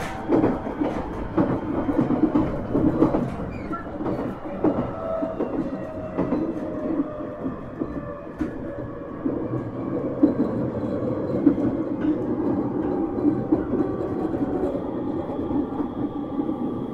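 JR 701 series 1000-subseries electric train running, heard on board. Wheels clack over rail joints, mostly in the first few seconds. Under the running noise, the motor and gear whine slowly drops in pitch as the train slows.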